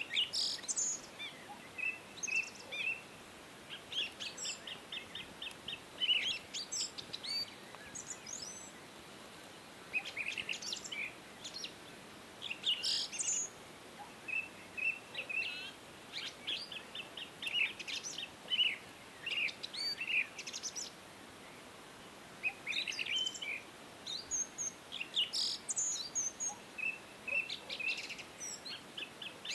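Birds chirping and singing: phrases of quick, high-pitched repeated notes and trills, each lasting a second or two, separated by short pauses, over a faint steady hiss.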